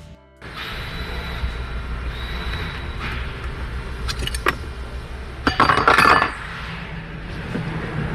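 Metal tools clinking and knocking in bursts over a steady low hum of shop noise, with the loudest cluster of clinks a little past the middle.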